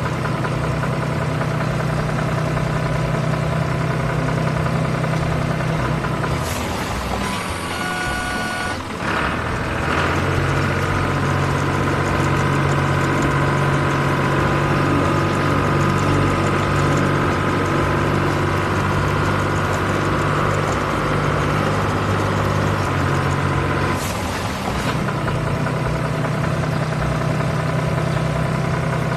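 Sound-effect truck engine running steadily, with a short run of beeps about eight seconds in and brief whooshes near the start and near the end.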